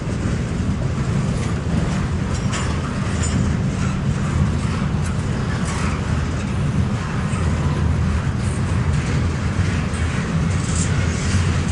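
Double-stack intermodal freight train rolling past: a steady low rumble of steel wheels on the rails, with a few scattered sharp clicks.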